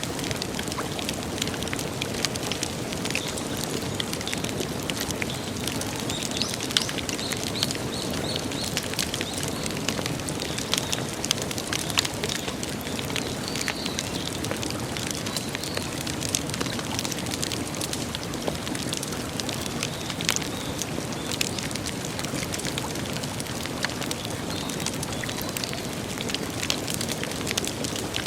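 Wood campfire crackling, with frequent sharp pops and snaps over a steady hiss of burning.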